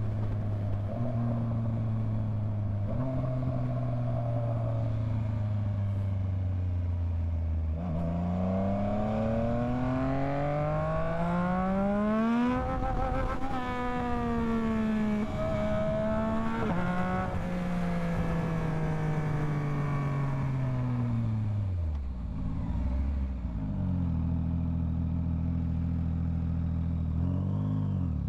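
Yamaha MT-09's three-cylinder motorcycle engine on the move. It runs steadily, then revs up smoothly for several seconds about a third of the way in and holds. It winds down to a low near-idle about three-quarters of the way through, then pulls away again near the end.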